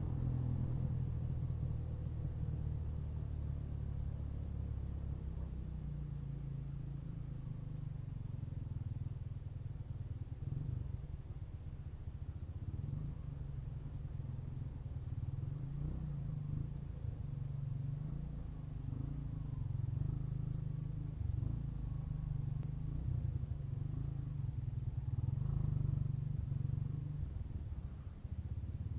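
Motorcycle ride heard through an action camera's mic fitted with a furry deadcat windscreen: a steady low rumble of engine and muffled wind, with almost no high hiss, swelling slightly now and then.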